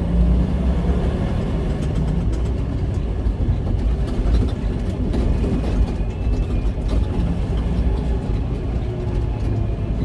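Semi truck's diesel engine running while driving, with steady low engine and road noise.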